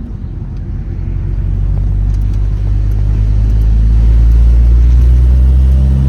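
2006 Honda Civic Si's 2.0-litre four-cylinder engine pulling under acceleration, its note rising slowly in pitch and growing louder over the first few seconds, then holding.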